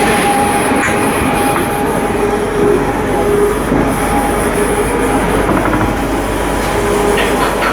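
Loud, steady mechanical noise with brief squealing tones coming and going.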